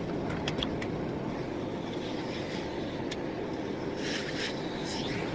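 Miele Blizzard CX1 bagless cylinder vacuum cleaner running steadily while cleaning into a narrow gap, with a few faint clicks and a brief rise in air hiss about four seconds in.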